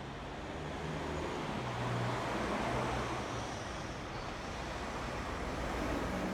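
City street traffic: a motor vehicle passing with a low engine hum and tyre noise, swelling loudest about two to three seconds in.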